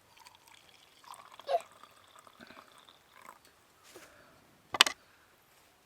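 Water being poured and trickling with light clinks of camp cookware, as hot water is handled for coffee; one sharp clink or knock a little under five seconds in.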